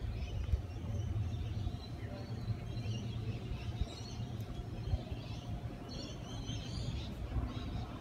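Birds chirping faintly and intermittently over a steady low background rumble.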